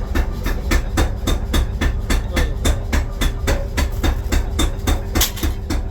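Rapid, even hammer blows on steel, about five a second, during the forging of a masonry trowel, over a steady machine hum.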